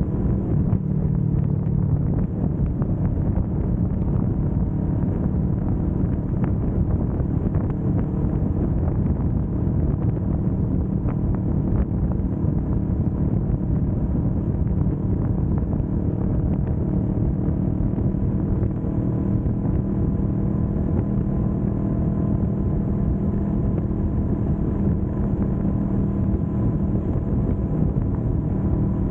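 Kawasaki Vulcan S 650's parallel-twin engine running steadily at cruising speed, its pitch holding level, with wind rushing over the microphone.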